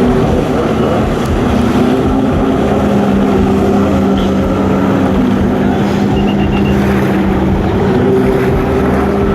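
Jet ski engines running at speed on the water, a steady droning engine note that holds its pitch with little change.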